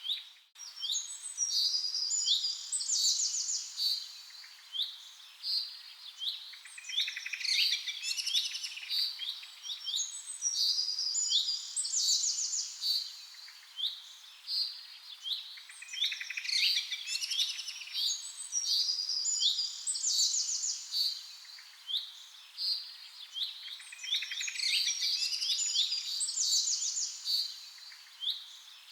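Birds chirping and trilling in dense overlapping calls, high-pitched, coming in busier clusters every few seconds.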